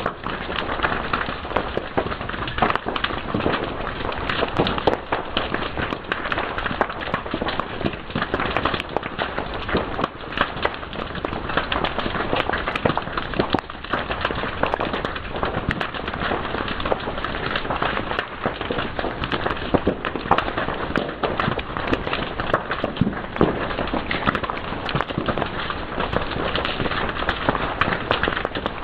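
Fire crackling and snapping continuously, a dense run of sharp pops over a steady hiss.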